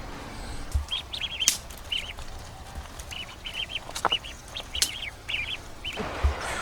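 Bird chirping in quick runs of short, high notes, with a few sharp clicks among them.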